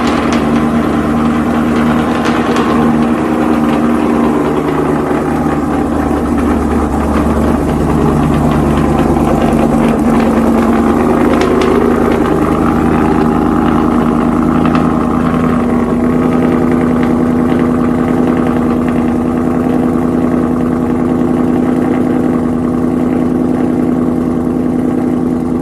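Car engine idling steadily just after a cold start, with a slight change in its tone about seven seconds in.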